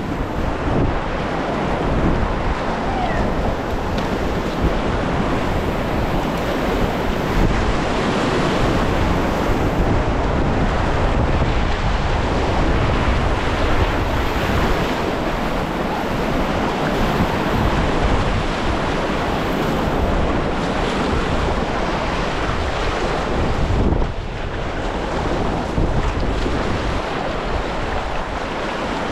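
Rushing whitewater of river rapids, a loud steady wash of moving water with wind buffeting the microphone, easing slightly near the end.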